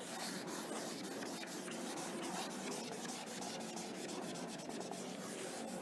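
Steady dry rubbing against a classroom board.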